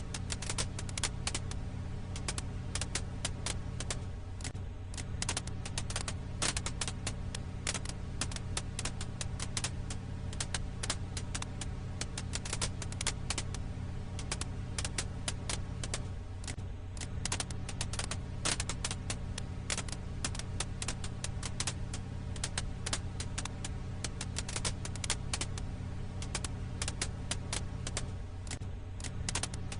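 Firewood crackling in a campfire: dense, irregular pops and snaps over a steady low hum, repeating as a loop about every 12 seconds.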